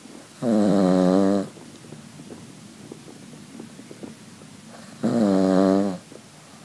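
Cavalier King Charles spaniel snoring loudly in deep sleep: two long, pitched snores, each about a second, the second some four and a half seconds after the first.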